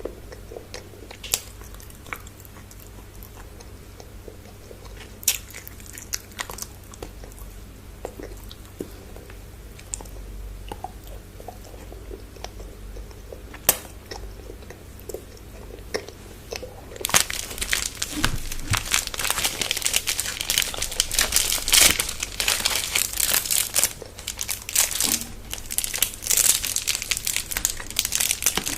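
Chocolate bar wrappers crinkling, with scattered crunching and chewing of the chocolate. There are only a few separate clicks at first, then from a little past halfway it turns into dense, loud crinkling of the wrappers.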